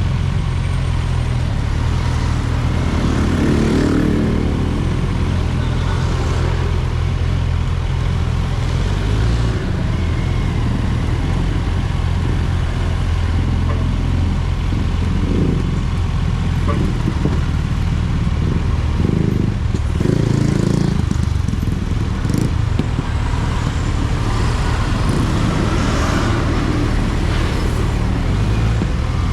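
Kawasaki Ninja 1000SX inline-four engine running steadily under way, with road noise over it; the engine note changes a couple of times, around ten seconds in and again around twenty.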